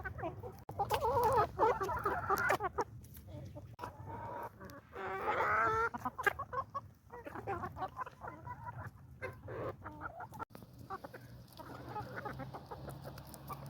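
Domestic chickens clucking in short calls, with one louder, longer call about five seconds in.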